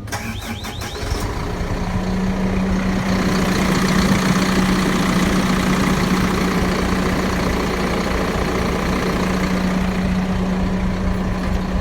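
Cab air conditioning blower running on high in a diesel Hino box truck with the engine idling. There is a steady hum and a rush of air, with a few clicks in the first second.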